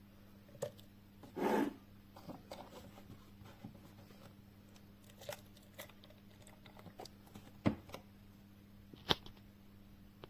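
Light handling noises: a short rustle about a second and a half in, then scattered small clicks and taps with two sharper clicks later on, over a faint steady hum.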